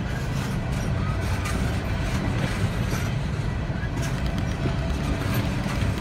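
Empty Norfolk Southern coal cars rolling past on the rails: a steady low rumble of steel wheels on track, with a few faint clanks.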